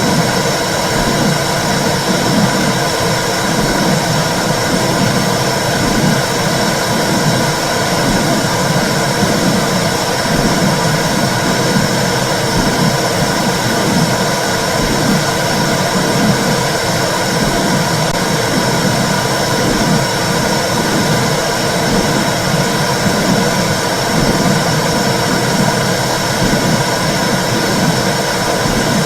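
Womb sound for soothing babies: a loud, steady whooshing rush with a low, rhythmic pulse like a heartbeat.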